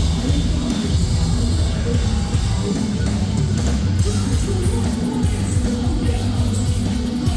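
Metalcore band playing live at full volume: distorted guitars, drums and bass, with vocals.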